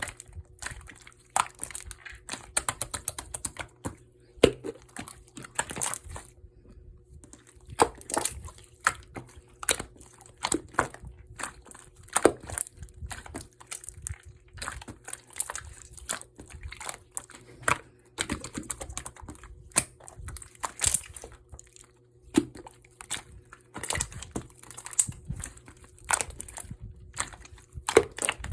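A long run of irregular sharp clicks and taps, with some crinkling, at an uneven pace with short pauses.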